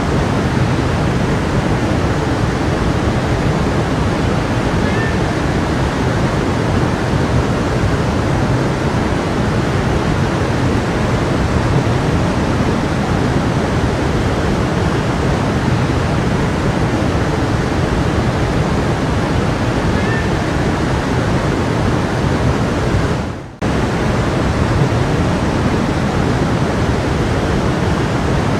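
A brook's water running steadily as a continuous rushing noise. The sound drops out for a split second about three-quarters of the way through, then resumes unchanged.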